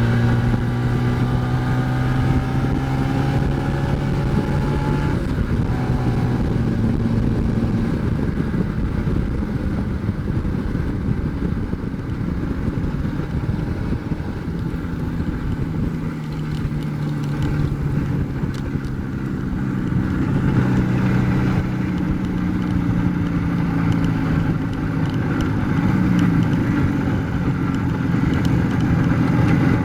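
IZh Jupiter-4's two-stroke twin-cylinder engine running under way as the motorcycle is ridden, with both cylinders firing cleanly. Its pitch rises at first, drops sharply about five seconds in, then rises and falls with the throttle over a steady rushing noise.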